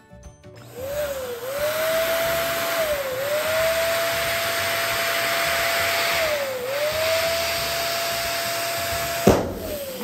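Electric balloon pump running with a steady whine that sags briefly three times, then a single sharp bang a little over nine seconds in; the motor winds down right after.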